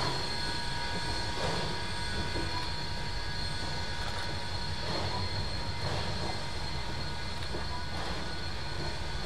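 A train running on the rails: a steady low rumble with thin, high squealing tones from the wheels.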